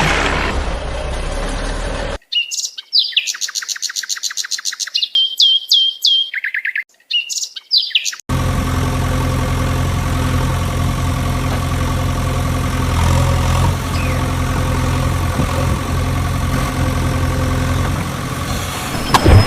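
Rapid electronic chirps and falling tones, cleanly repeated like a toy sound effect, then from about eight seconds in a steady engine idling sound, as from a toy vehicle's sound module.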